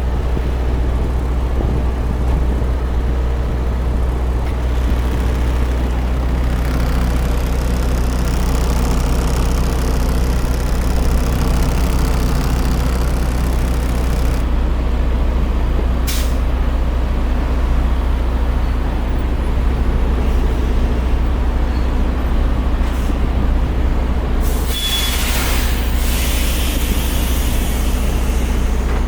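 Semi truck's diesel engine running steadily, heard from inside the cab, with a short burst of air hiss near the end.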